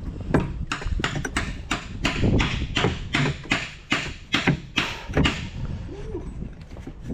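Rapid, irregular knocks and clanks of metal corn-head parts being handled and worked into place, about three or four a second, thinning out after about five seconds.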